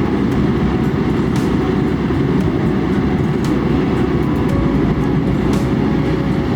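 Kobelco SK200 excavator's diesel engine running steadily under working load, a deep continuous rumble with a few faint ticks.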